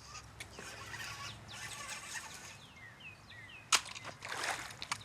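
Short bird chirps, with one sharp knock about three-quarters of the way in.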